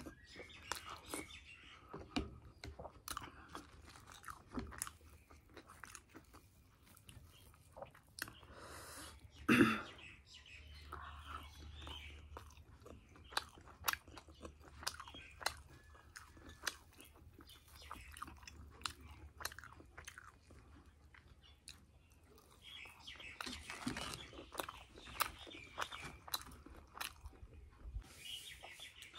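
Close-up chewing of fried semolina puri and potato curry: many small crunches and wet mouth clicks, with one louder knock about a third of the way through.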